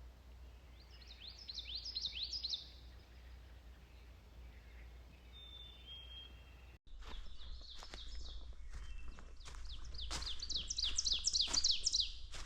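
Birdsong in spring woodland: a loud, fast series of repeated down-slurred notes that grows louder as it goes, typical of an ovenbird, sung twice. Footsteps on the trail come through in the second half.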